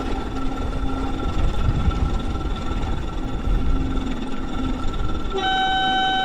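5-inch gauge model Class 20 locomotives running with a train of wagons, a thin steady motor whine over wind rumble on the microphone. About five seconds in, a horn sounds one steady note for about a second.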